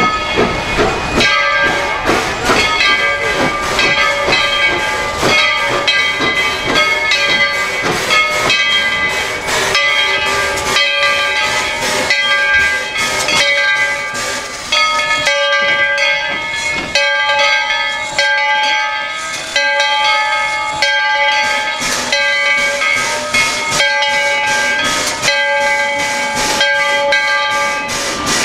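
Steam locomotive working, its exhaust beating rapidly under a steady, high whistling hiss of steam whose pitch shifts slightly a few times.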